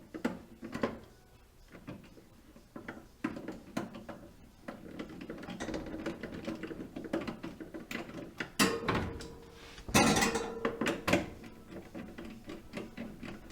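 A screw being driven in and fridge parts being handled: scattered clicks and knocks of plastic and metal, with a louder clatter about nine to ten seconds in.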